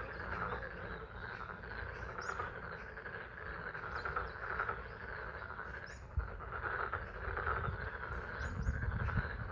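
A chorus of frogs calling continuously from a pond, with a low rumble underneath and a few brief, high bird chirps.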